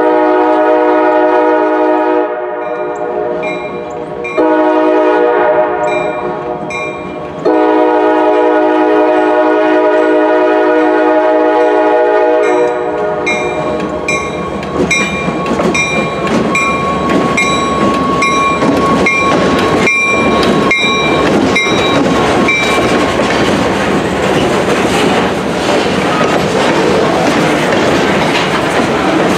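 Diesel freight locomotive's horn sounding three long blasts for a grade crossing, with the crossing signal's bell dinging steadily. About twelve seconds in, the horn stops and the locomotive's engine and the wheels of the freight cars rumble and clack over the crossing as the train passes. The bell stops a little after twenty seconds.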